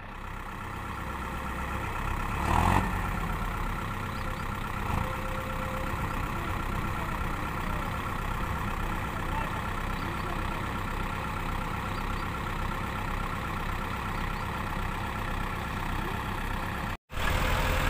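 Diesel tractor engine running steadily at an even speed, with a brief louder rush about two and a half seconds in.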